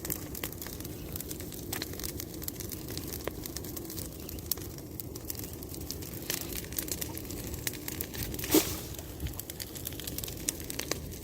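Bonfire crackling with irregular snaps and pops, one louder pop about eight and a half seconds in.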